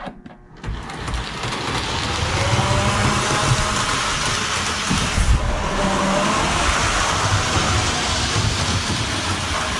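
Model steam locomotive running around its track: a steady rumble and rattle of wheels and motor with a hiss, building up over the first couple of seconds and then holding steady.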